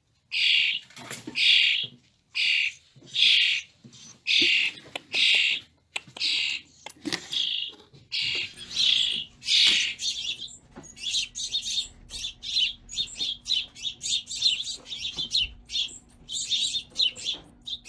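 Hand-reared nestling birds begging to be fed: shrill chirps about once a second, giving way about halfway through to a quicker, denser run of short chirps.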